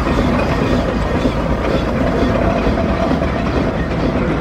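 Steam traction engines driving past in procession, giving a steady, dense low-pitched mechanical noise with no single standout event.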